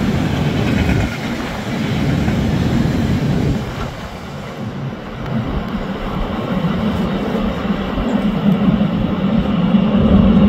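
Empty car-carrier freight wagons rolling past on the rails at speed, a loud steady rumble of wheels on track. It dips about four seconds in as the tail of the train passes, then a low rumble builds again as the train runs off.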